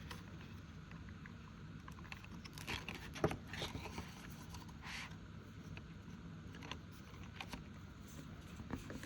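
Faint rustling, tapping and scraping of paper envelopes and cash being handled, in small scattered touches.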